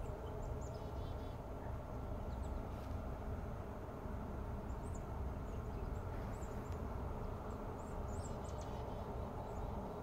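Faint, short, high bird chirps and calls scattered throughout, busiest in the second half, over a steady low rumble.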